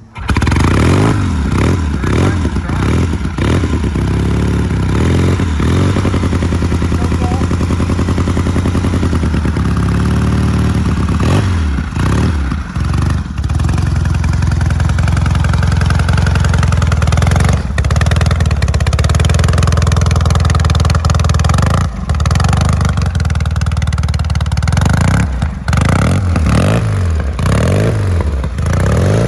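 1973 Norton Commando 850's air-cooled parallel-twin engine catching on a cold start with the choke on, then running loud, the throttle blipped several times near the start, again about twelve seconds in and near the end, with steady running in between.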